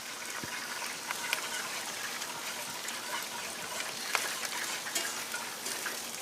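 Pork sausage grease frying in a cast iron skillet as flour goes in for a roux: a steady sizzle with scattered crackles.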